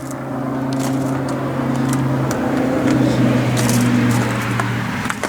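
Ford 3930 tractor's three-cylinder diesel engine running steadily.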